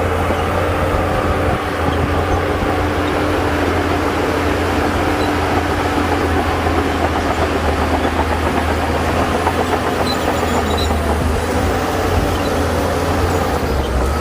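Heavy diesel earthmoving machinery running steadily under work: a constant low engine drone.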